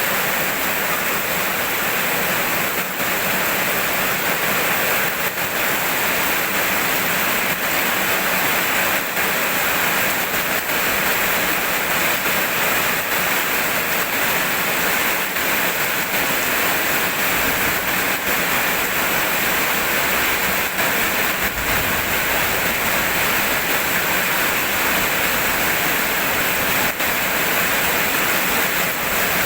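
Steady rain falling, a dense, even hiss that does not change.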